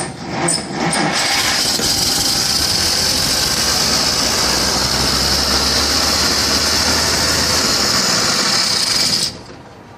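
The freshly installed flathead 230 cubic-inch inline six of a 1949 Dodge Coronet fires on a start attempt. It catches about a second in, runs loud and steady for about eight seconds, then cuts out suddenly.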